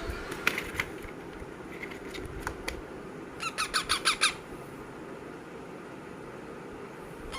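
Parakeet giving a quick run of about seven sharp squawks lasting under a second, about halfway through, after a few light clicks.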